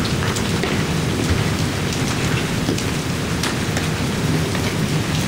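Hail and rain pelting down: a dense, steady rush of impacts with many separate sharp clicks and knocks of stones striking hard surfaces.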